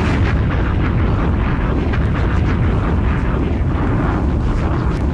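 Loud, steady rumbling, crackling noise, a sound effect laid into a beat tape's intro, easing off slightly near the end.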